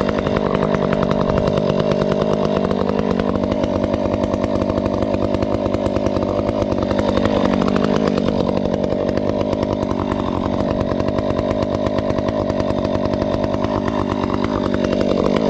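Husqvarna 372XP two-stroke chainsaw with a ported muffler, running steadily at high revs while cutting through a tree, its pitch wavering slightly under the load.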